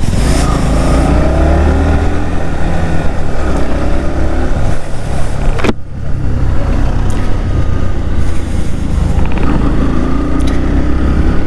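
Motorcycle being ridden, its engine running under a steady low rumble of wind on the microphone, with a single sharp knock about six seconds in.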